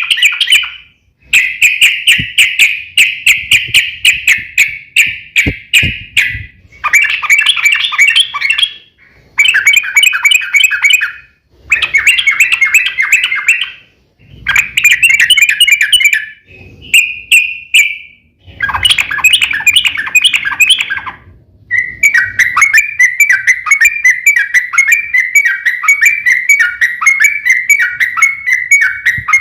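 Sooty-headed bulbul (trucukan) singing its fast rattling 'ropel' song: loud, rapid chattering phrases of about two seconds each with brief pauses, running into one long unbroken run of quick notes for the last quarter.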